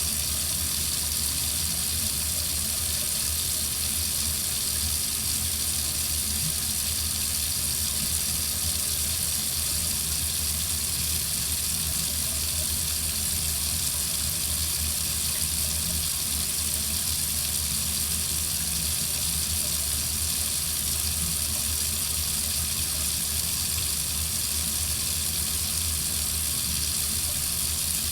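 Water running steadily from a faucet into a sink, an even splashing hiss that does not change.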